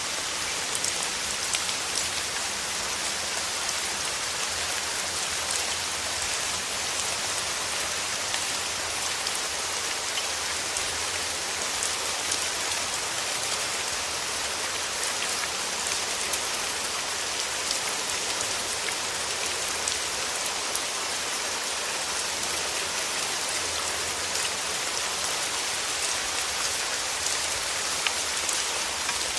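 Steady rain falling, an even hiss with individual drops landing as small close ticks scattered throughout.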